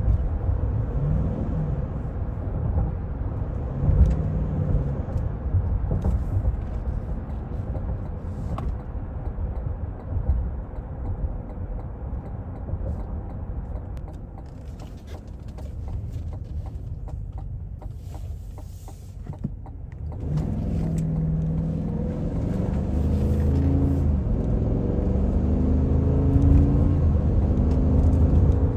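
Cadillac Escalade's 6.2-litre V8 and tyres giving a steady low rumble while driving. About two-thirds of the way through it gets louder, and the engine note climbs again and again in steps as it accelerates through the gears.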